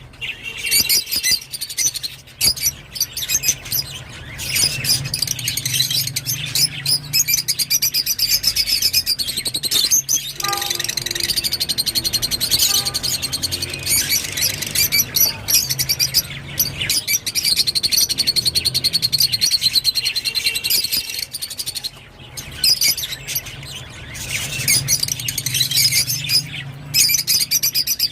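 Rosy-faced lovebirds chattering, a dense run of rapid high chirps that carries on with only short breaks. A steady low hum sits underneath.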